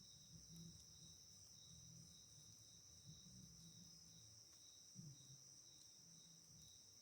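Faint night insects, crickets: a steady high trill with a second chirp pulsing about twice a second.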